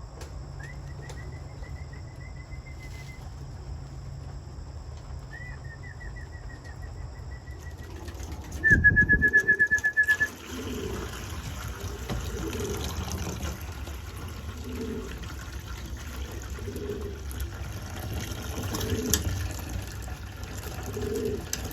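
Homing pigeons cooing and flapping in the loft, with short high electronic beeps from the race clock's trapping pad; a loud rapid string of beeps about nine seconds in, then steady cooing.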